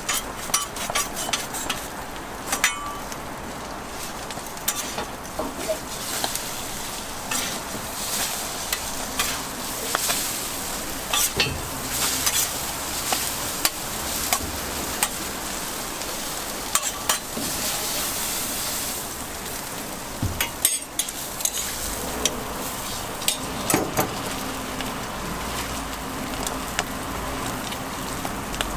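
Toast fillings frying and sizzling on a street vendor's hot griddle, with frequent sharp clicks and scrapes of metal utensils working the food.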